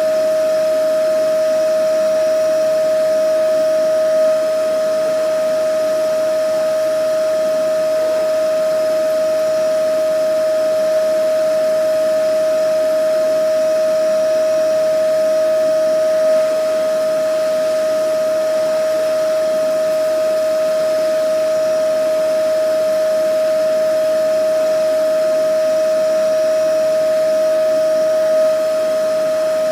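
Vacuum cleaner motor running steadily: a constant high whine over an even rushing hiss, with a slight swell about every twelve seconds.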